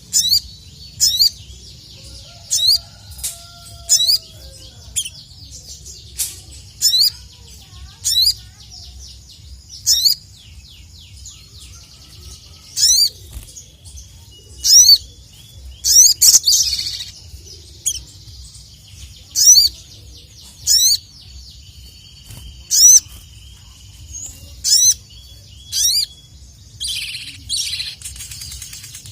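Sogon (little spiderhunter) calling over and over in full voice: sharp, very high chirps every second or two. A steady low hum runs underneath.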